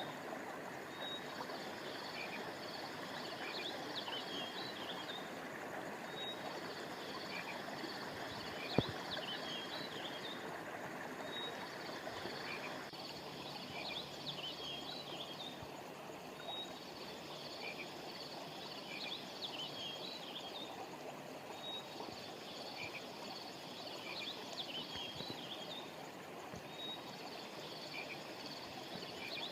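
Steady rush of a flowing river or stream, with clusters of high chirping calls that repeat about every five seconds like a loop. A single sharp click about nine seconds in, and the water noise thins a little in its upper range around the middle.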